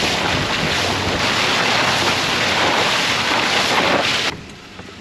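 Loud steady rushing noise, even across the range with no distinct tones, that cuts off abruptly about four seconds in.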